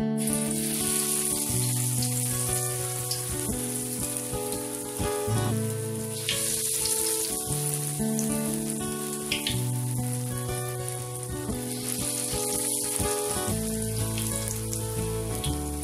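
Corn fritter batter deep-frying in hot oil in a wok: a loud, steady sizzle with scattered crackles that starts as the batter goes into the oil. Acoustic guitar background music plays underneath.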